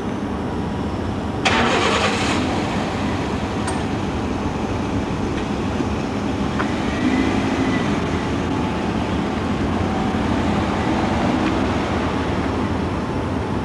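A car engine starts about a second and a half in, then runs steadily as the sedan pulls away.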